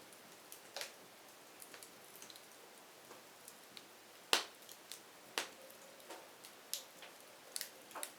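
Firewood crackling as it burns: irregular sharp pops and snaps over a soft steady hiss, with the loudest cracks about four and five seconds in.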